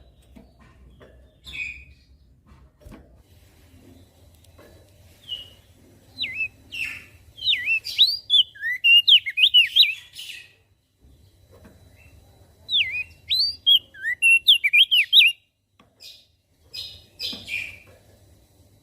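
Opior jambul (crested dark-eye) singing. There are two bursts of fast, high twittering song a few seconds each, with scattered single chirps between them and near the end.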